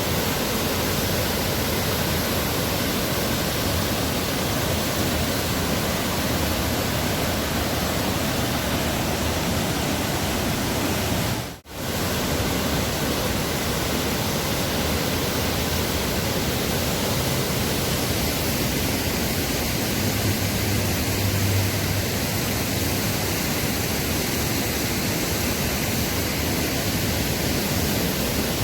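Water pouring steadily over a man-made canal waterfall: a dense, even rush with no change in strength. It cuts out for a split second about twelve seconds in.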